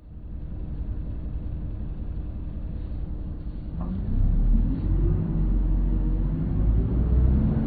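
Isuzu Erga diesel city bus with an automated manual transmission: the engine rumbles steadily, then from about three and a half seconds in it pulls away. Its pitch rises, dips at a gear change and rises again as the bus accelerates.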